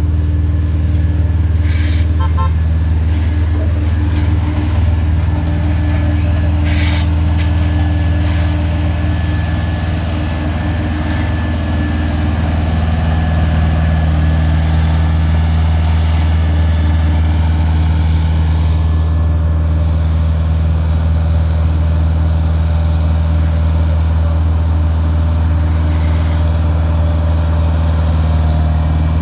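Heavy road-construction machine's engine running steadily at a constant speed, a loud, even low hum, with a few brief clicks about 2 and 7 seconds in.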